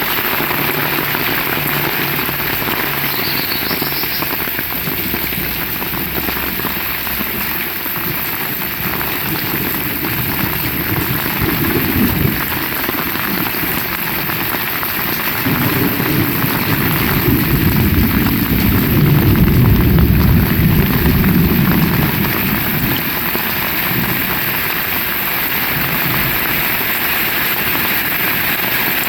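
Heavy rain falling steadily. A deep low rumble builds a little past the middle, peaks a few seconds later and fades after about seven seconds, and a shorter rumble comes about twelve seconds in.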